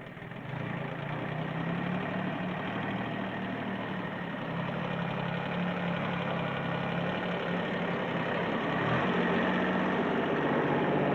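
Ford compact tractor's three-cylinder diesel engine running steadily, getting a little louder about nine seconds in.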